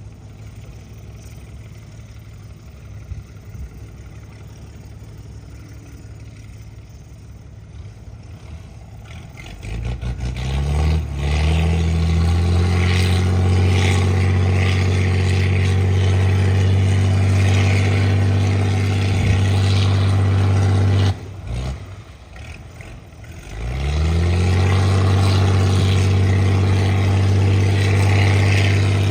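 Engine of a mud-dredging boat, first a low quiet hum, then revving up with a rising note about ten seconds in and running loud and steady. It cuts out suddenly a little past twenty seconds, then revs up again and runs steady.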